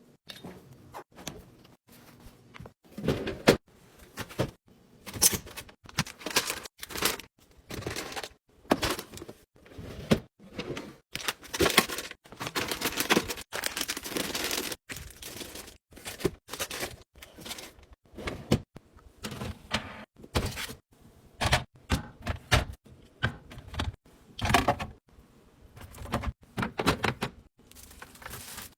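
Items being put into a refrigerator: a steady run of knocks, taps and clatters as containers are set on the shelves, with a few seconds of rustling near the middle.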